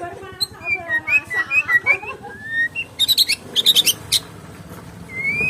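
White-rumped shama (murai batu) singing a varied song: sliding whistled notes, then a quick run of sharp high notes about three seconds in, and a rising whistle near the end.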